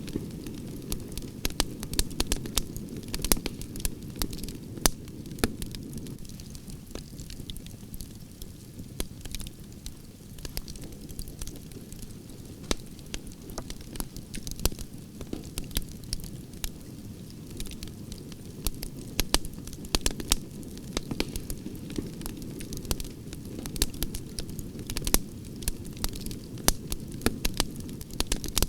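Wood branches burning in a campfire: a steady low rumble of flames with frequent sharp crackles and pops, several a second, some louder than the rest.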